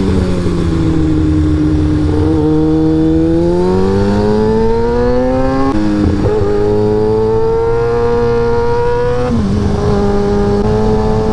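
Sportbike engine running under way: its pitch sinks, then climbs steadily for a few seconds, drops suddenly about six seconds in, holds, and drops again about nine seconds in.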